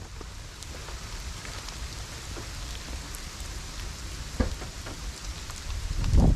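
Steady rain falling, with scattered drops ticking on surfaces and a sharper knock about four seconds in. A louder low thump comes just before the end.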